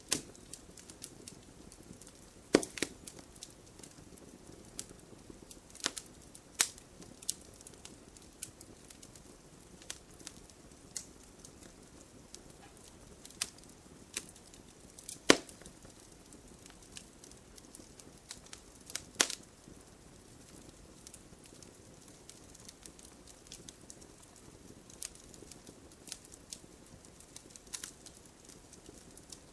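Wood bonfire crackling: irregular sharp pops and snaps over a soft steady hiss of burning, with three louder pops, a few seconds in, about halfway, and a few seconds later.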